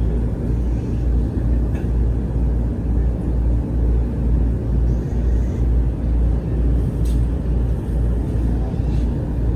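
Interior running noise of an Aonami Line electric train moving between stations: a steady low rumble that pulses evenly about twice a second.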